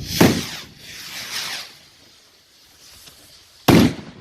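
Fireworks: two hissing whooshes, the first with a low thump, then a sharp bang about three and a half seconds in.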